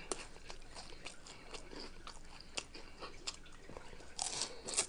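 Close-miked chewing of crunchy Flaming Hot Cheetos nachos: scattered crisp crunches and mouth clicks, with a louder run of crunches near the end.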